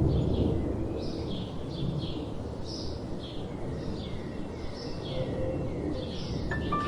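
Small birds chirping in short, quick repeated calls, about two a second, over a soft low rumble of wind. Near the end, bell-like keyboard notes of the ambient music come in.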